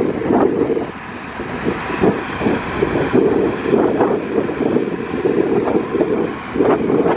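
Heavy earthmoving machinery running, a diesel dump truck or bulldozer, with wind buffeting the microphone so the noise swells and drops every second or so.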